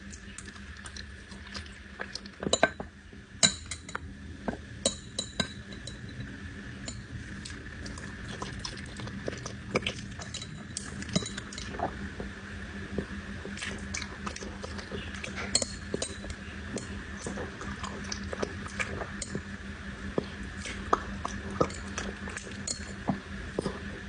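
Dog eating from a bowl: irregular clinks and crunches as food and teeth knock against the bowl, over a steady faint hum.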